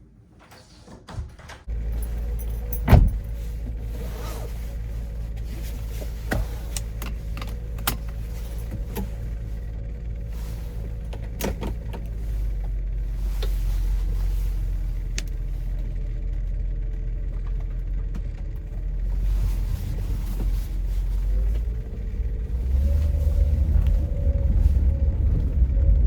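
A car's engine and road noise heard from inside the cabin while driving: a steady low rumble that grows louder twice, with scattered clicks and one sharp knock about three seconds in.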